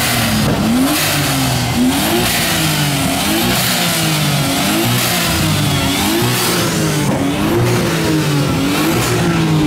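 Car engine being revved hard while parked, the pitch rising and falling over and over, about once a second.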